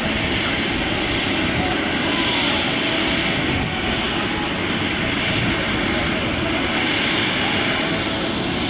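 Helicopter running steadily, its engine and rotor making a dense, continuous noise.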